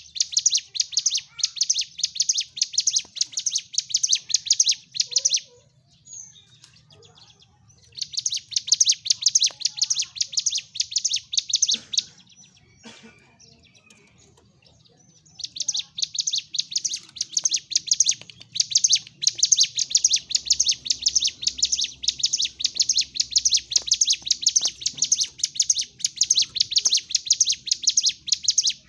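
Ciblek gunung, a prinia songbird, singing a rapid, high-pitched chattering song of densely repeated notes in its aggressive fighting mode. It sings in three long bouts, breaking off twice for a couple of seconds.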